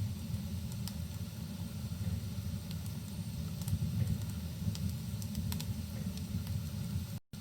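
Wood fire burning in a fireplace: a steady low rumble with scattered sharp crackles and pops. The sound cuts out for a split second near the end.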